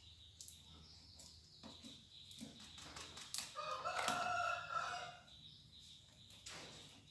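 A rooster crowing once: one drawn-out call of about a second and a half near the middle. Faint clicks and rustles are heard before and after it.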